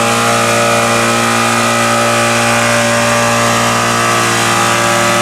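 Car engine held flat out at a steady, unchanging high rev during a burnout, over the hiss of spinning tyres.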